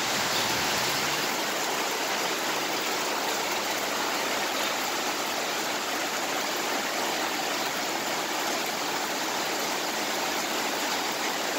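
Heavy rain falling steadily on pavement and grass, an even hiss with no breaks.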